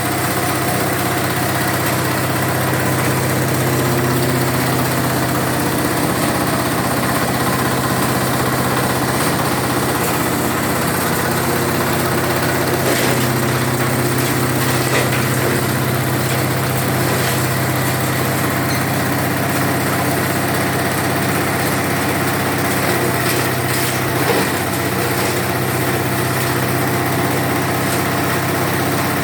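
Coconut husk shredder machine running at a steady speed, its engine droning evenly throughout, with a few brief knocks.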